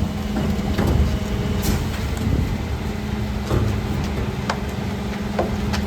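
Mercedes Econic refuse truck running steadily with a low hum, with a few sharp knocks spread through it.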